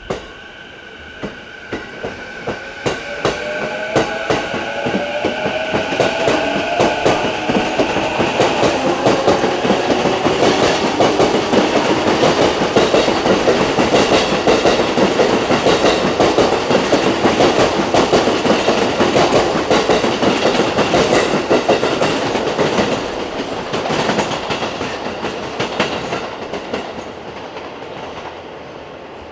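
Electric train running past: a motor whine rising in pitch over the first several seconds, then a long run of wheel clatter over rail joints that builds, holds and fades near the end.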